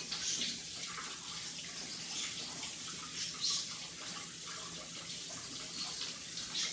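Kitchen tap running into a sink, water splashing steadily, with small spatters now and then.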